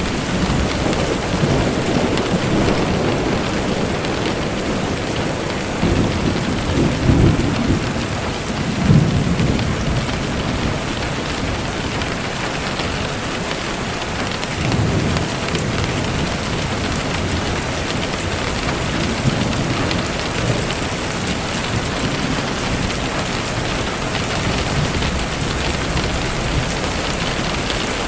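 Steady rain, with low rumbles of thunder swelling several times, the strongest about seven to nine seconds in.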